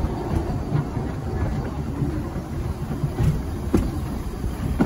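Narrow-gauge train running on the rails: a steady low rumble with a few short knocks, the loudest near the end.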